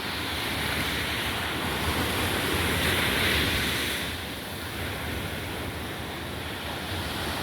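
Sea surf washing onto a beach, with wind buffeting the microphone. The wash swells about three seconds in, eases, then builds again near the end.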